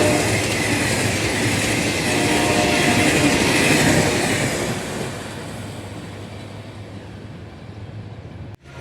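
A passenger train, hauled by a General Electric diesel locomotive, rolls past with a loud rush of wheel and carriage noise. The noise fades away over the last few seconds as the train moves off, and there is a short break in the sound near the end.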